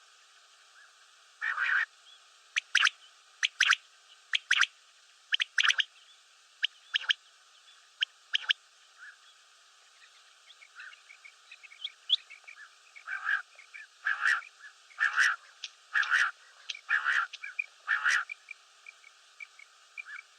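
Common quail calling: short, sharp call notes repeated in irregular groups, with a brief lull about halfway and the calls coming thicker near the end. A faint quick ticking series runs under the second half.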